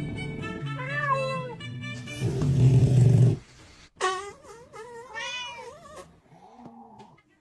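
A cat yowling in several drawn-out calls that waver up and down in pitch, with a loud, rough noisy burst between them.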